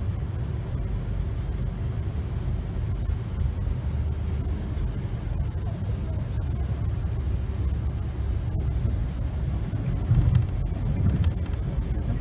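Steady low rumble of a Class 390 Pendolino electric train running along the track, heard from inside the carriage, with a brief louder swell and a few clicks about ten seconds in.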